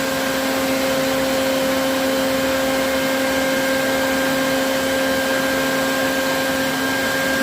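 A vacuum motor running steadily: an even rush of air with a constant hum that neither rises nor falls.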